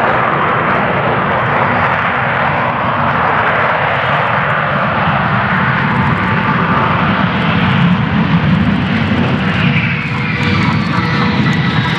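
F-35B Lightning II's F135 jet engine running loud and steady in its vertical-landing mode with the lift fan engaged. Near the end a high whine glides down in pitch.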